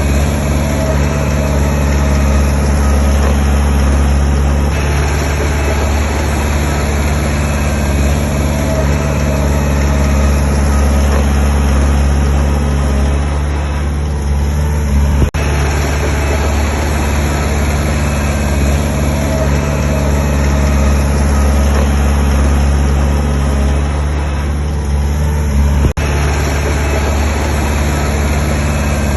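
Heavy construction machine's diesel engine running steadily with a deep, even drone, broken twice by a sudden momentary drop, about halfway through and near the end.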